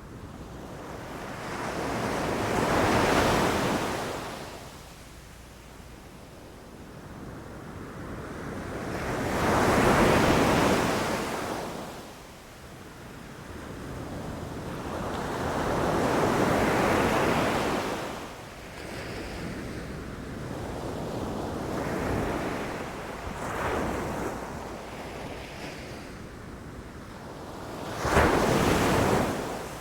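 Sea waves breaking on a beach: five surges of surf, each swelling and then washing away. The last one, near the end, hits with a sudden crash.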